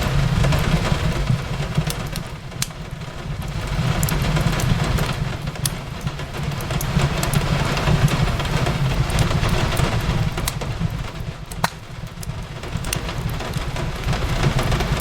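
Fireplace crackling with scattered sharp pops, one louder pop near the end, over steady rain and a low rumble that swells and eases every few seconds.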